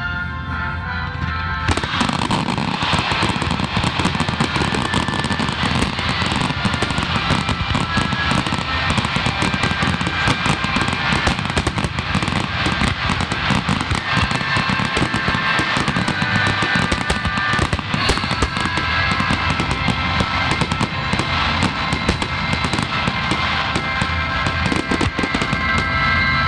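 Fireworks crackling densely, a rapid continuous stream of pops starting about two seconds in, over music with a steady set of tones.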